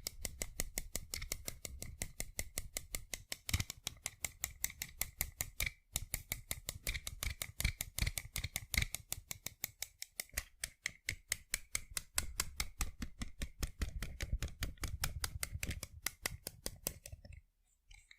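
Rapid fingertip tapping on sunglasses, a fast steady run of light clicks with a brief pause about six seconds in, stopping near the end.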